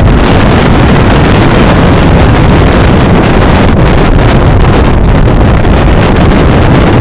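Strong storm wind buffeting the microphone: a loud, steady rushing noise that does not let up.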